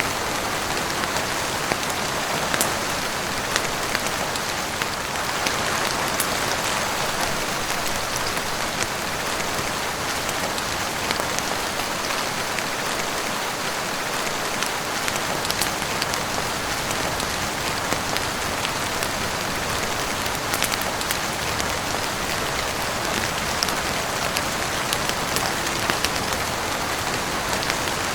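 Steady heavy rain falling on a roof, an even hiss with scattered sharp little ticks throughout.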